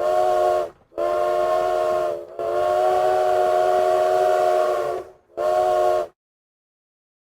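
Train whistle sounding a chord of several notes in four blasts: short, medium, long, then short.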